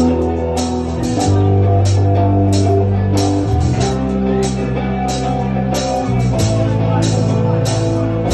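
Instrumental intro of a rock song: guitar and drums over held bass notes, with a steady beat of about two hits a second.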